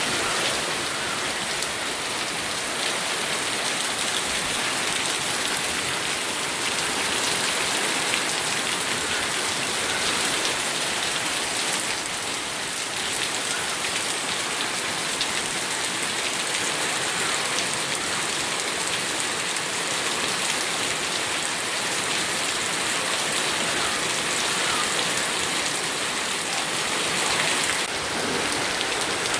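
Steady rain falling, a dense even hiss with many fine drop ticks and no lulls.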